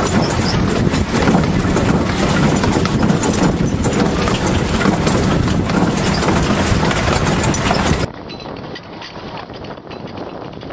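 Narrow-gauge steam train running, heard from on board close behind the locomotive: a loud, dense clatter of wheels and running gear. About eight seconds in it cuts to a quieter, steady running noise.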